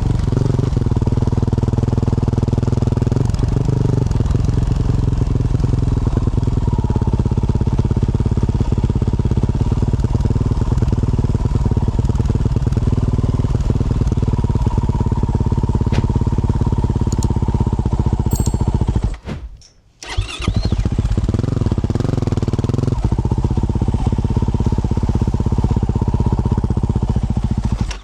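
Yamaha YZ450F single-cylinder four-stroke dirt bike engine with a Yoshimura RS-12 exhaust, running at a steady low speed. About two-thirds of the way in it cuts out for under a second, then starts again and runs steady.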